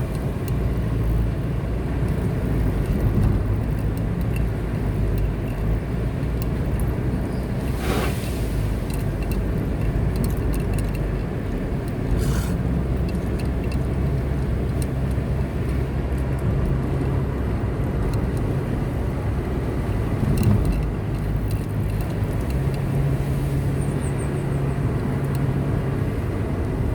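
Car driving on a road, with a steady low engine and road rumble and a sharp knock about eight seconds in.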